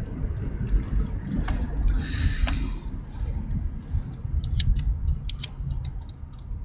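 Low, steady rumble of a car heard from inside the cabin, with a brief rustle about two seconds in and a few sharp clicks about five seconds in.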